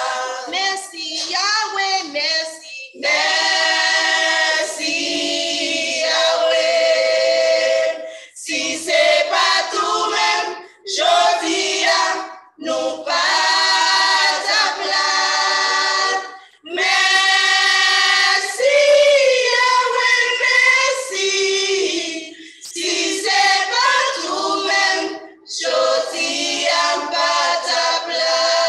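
Gospel choir singing phrases in several voices, with short breaks between phrases.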